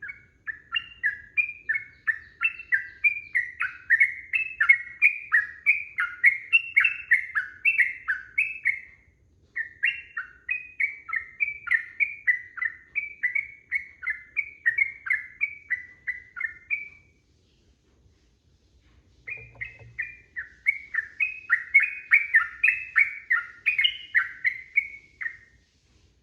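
Yellow-vented bulbul (trucukan) singing its long, rapid-fire song. It gives quick repeated whistled notes, about three or four a second, in three long runs. There is a short break after about nine seconds and a longer pause around seventeen seconds.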